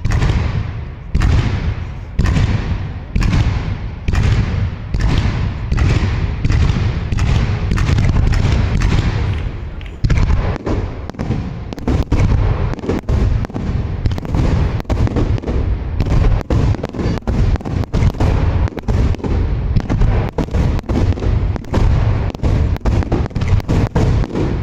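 Fireworks display: aerial shell bursts going off about once a second, then from about ten seconds in a faster barrage of many quick bangs.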